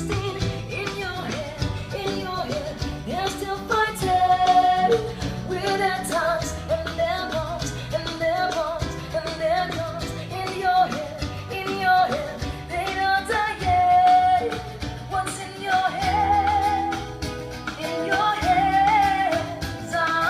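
A song with singing and guitar played back through Yamaha NS-10M loudspeakers.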